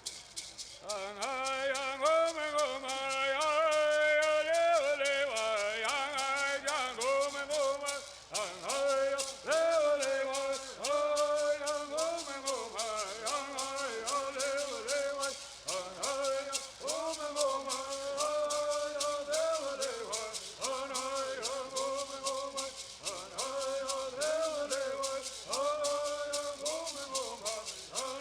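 Southern California bird singing: voices singing together in unison, holding and gliding between notes, over a steady fast shaking of gourd rattles. The singing comes in about a second in, after the rattles have started.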